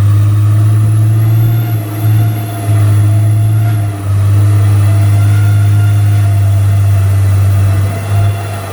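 Mega mud truck's engine droning low and loud while driving, heard from inside the cab. The level drops briefly about two seconds in, at four seconds, and again near the end.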